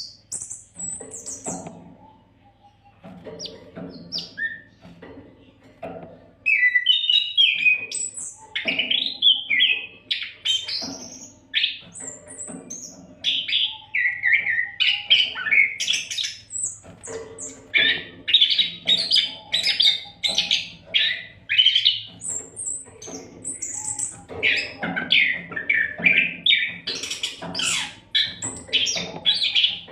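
Oriental magpie-robin singing without pause: rapid, varied phrases of whistles, chirps and harsher notes. Quieter for the first few seconds, louder from about six seconds in.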